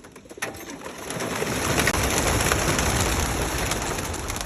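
A flock of racing pigeons being released, their many wings clattering together as they take off, swelling about half a second in into a dense, steady rush.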